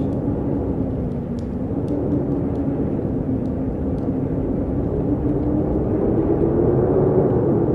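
Strong wind howling: a steady rushing with a low moaning tone that wavers and rises slightly near the end.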